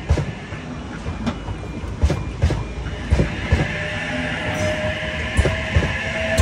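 Sydney Trains H set (OSCAR) double-deck electric train passing close by: a steady rush with sharp clacks from the wheels at irregular intervals. About halfway through, a steady whine and a hiss join in.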